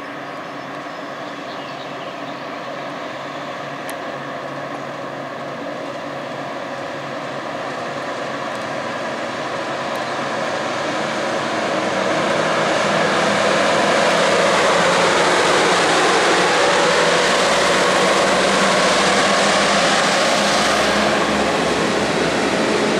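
A freight train with two electric locomotives at its head approaches and passes close by, growing louder, with a steady hum that drops in pitch as the locomotives go by. It is followed by the deep rumble of the boxcars rolling past on the rails.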